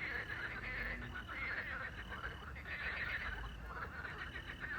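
A chorus of frogs croaking in repeated rapid pulsing bursts that overlap one another, with crickets chirping steadily and faintly behind them.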